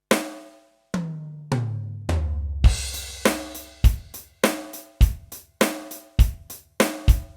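Yamaha DTX720K electronic drum kit played through its DTX700 module: a single snare hit, then a quick fill down three toms falling in pitch, a crash with a kick drum, and then a steady rock beat of kick and snare alternating with hi-hat in between.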